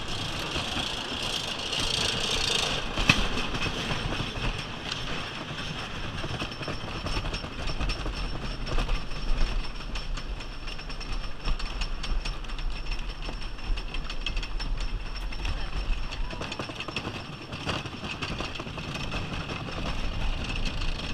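Wooden roller coaster train rumbling and clattering along its track, with scattered rattles and a heavier low rumble through the middle.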